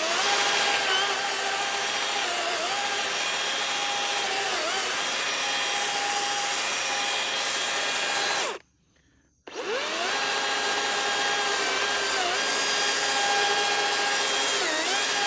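DeWalt electric chainsaw running through a cut in a tree, in two runs with a short stop between; the motor's whine dips in pitch briefly several times as the chain bogs in the wood. The owner feels the chain is a little dull and possibly short of oil.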